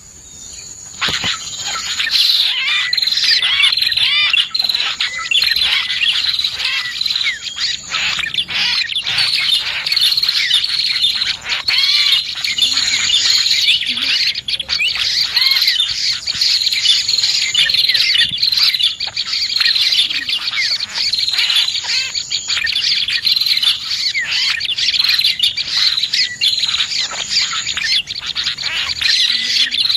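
Dense, continuous chirping of prinias (prenjak) mixed with other small birds, as played for luring birds, with rapid overlapping high calls. A thin, high, steady trill comes and goes over it. The sound dips briefly at the very start before the chorus builds back.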